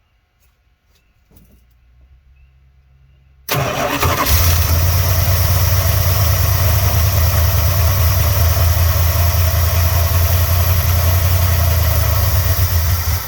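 1986 Dodge Ramcharger's V8 engine catching suddenly about three and a half seconds in, running loud and steady with a deep hum for about ten seconds, then cutting out near the end. It is running on fuel poured into the carburetor to prime it, and it dies because not enough gas is reaching the carburetor.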